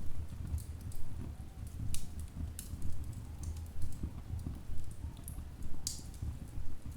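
Wood fire burning in a fireplace: logs crackling with scattered sharp pops, the loudest about two and a half and six seconds in, over a low, uneven rumble of the flames.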